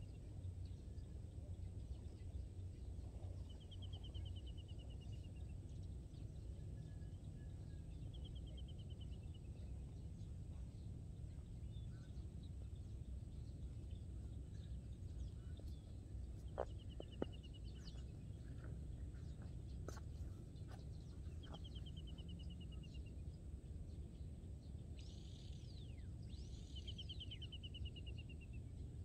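A bird repeats a short, rapid trill that falls slightly in pitch, five times, about every four to five seconds, over a steady low outdoor rumble. A few faint clicks come in the middle.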